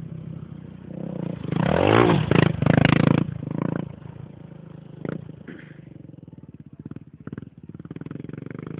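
Motorcycle engine idling, revved up hard once about a second and a half in, then dropping back to idle, with a few sharp clicks during the rev.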